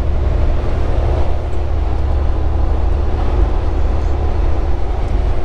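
Steady low drone of a semi-truck cruising at highway speed, heard from inside the cab: engine and road noise with a faint steady hum.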